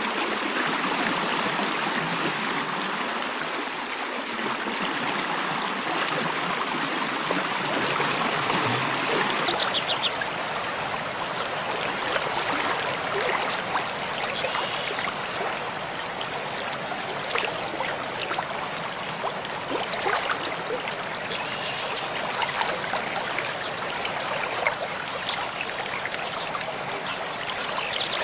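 Mountain stream flowing steadily, a continuous rushing and trickling of water, with a few brief high bird chirps about ten seconds in and near the end.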